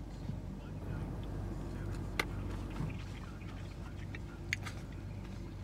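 Quiet chewing of a mouthful of a rice-and-bean burrito bowl, with a couple of faint clicks, over a low steady hum.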